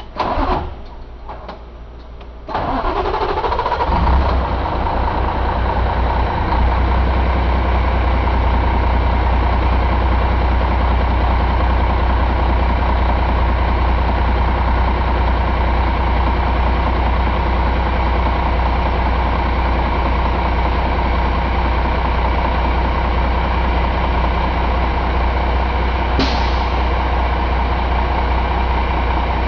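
2005 Cummins ISM inline-six diesel engine cranked over, catching about two and a half seconds in and settling into a steady idle, with one brief sharp noise near the end.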